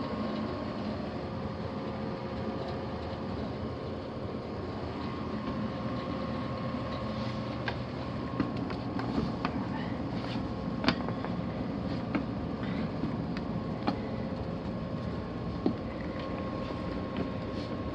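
Indoor HVAC air handler running: a steady mechanical hum with faint steady tones, and a few small clicks and knocks scattered through it.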